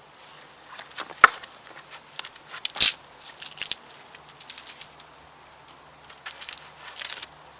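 Irregular crackling and snapping of dry twigs and branches being broken and handled while firewood is readied, with a sharp crack about three seconds in.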